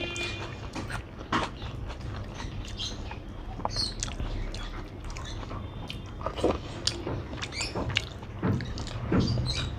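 Chewing and wet mouth sounds of a person eating rice and chicken curry by hand, with scattered soft clicks and squelches as her fingers mix the rice on the plate.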